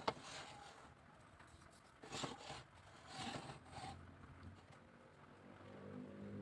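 Bamboo being worked by hand: a sharp click, then a few short scraping strokes. A low engine hum starts to rise near the end.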